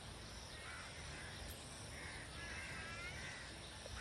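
Faint bird calls: several short arched calls, one after another, over steady outdoor background noise.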